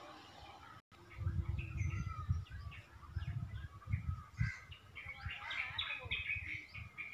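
Small birds chirping and twittering in many short calls that grow busier in the second half, over irregular low rumbles and bumps.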